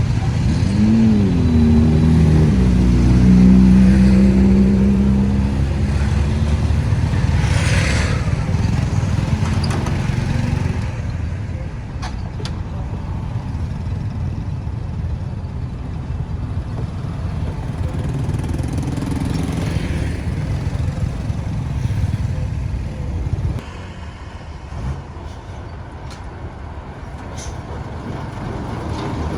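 Road traffic: a motor vehicle engine revs up and down and then runs steadily as it passes close by in the first few seconds, the loudest part. A steady mix of engines and tyre noise follows, dropping quieter about 23 seconds in.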